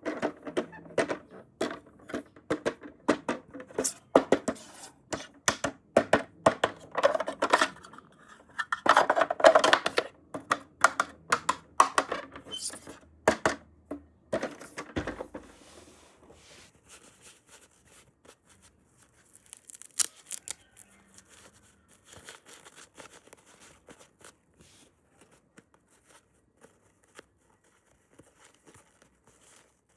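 Toy packaging being unwrapped and torn open by hand: rapid crinkling, tearing and small clicks, busy for about the first half, then only scattered quiet clicks and handling noises.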